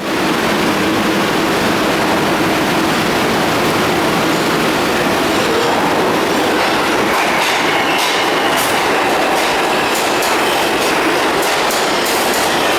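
Bombardier R142 subway train running, a loud steady rumble. About eight seconds in, its wheels start clicking over rail joints, with a faint high-pitched wheel squeal.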